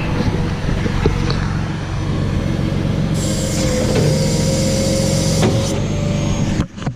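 Freightliner rollback tow truck's diesel engine running steadily, with a hiss joining in about three seconds in and stopping about two seconds later.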